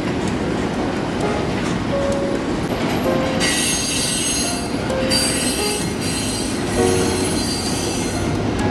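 Freight train rolling past, a steady rumble of wheels on rail. High-pitched wheel squeal rises over it for two stretches, about three and a half seconds and five seconds in.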